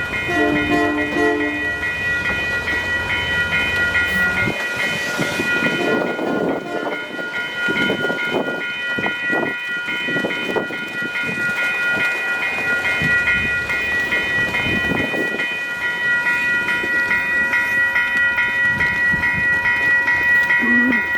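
Train passing a level crossing: a short horn blast at the start, then rolling wheel clatter and rumble as the cars go by, under a crossing bell ringing in a rapid, steady beat throughout.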